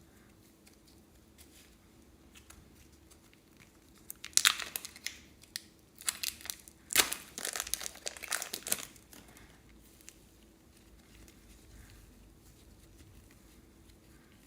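Thin plastic crinkling and crackling in a cluster of sharp bursts, loudest about four and a half and seven seconds in.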